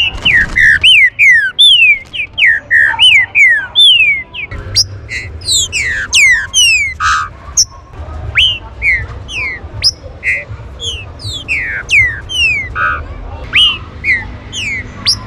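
Green-winged saltators (trinca-ferro) calling: a rapid stream of short, falling whistled notes from more than one bird, overlapping, with a low rumble underneath.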